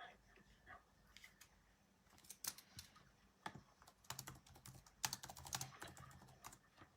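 Faint typing on a computer keyboard, with quick runs of key clicks coming in a few bursts.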